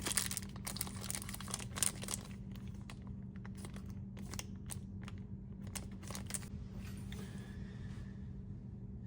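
Plastic packaging crinkling and crackling as it is handled and torn open, likely the bag holding a faucet repair kit's springs and seats, with bursts of crackles in the first few seconds and again midway. A steady low hum runs underneath.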